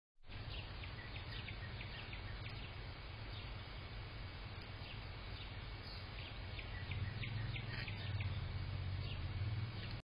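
Small songbirds giving short, sharp chirps scattered throughout, over a steady low hum that grows louder about seven seconds in.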